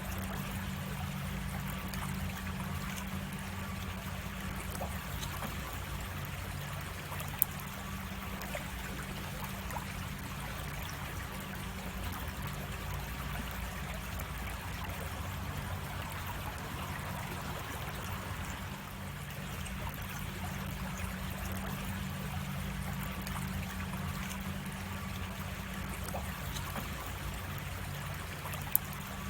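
Creek water flowing and trickling steadily. Two brief sharp clicks stand out, one about seven seconds in and one near the end.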